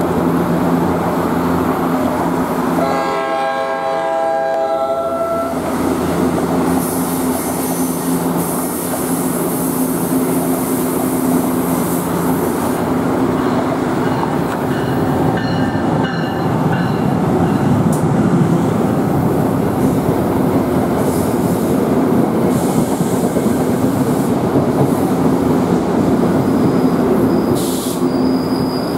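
NJ Transit train led by an ALP-46 electric locomotive arriving. A horn chord sounds about three seconds in and lasts a couple of seconds. Then the steady rumble and hum of the locomotive and bilevel passenger coaches rolling alongside the platform, with a thin high squeal near the end as the train slows.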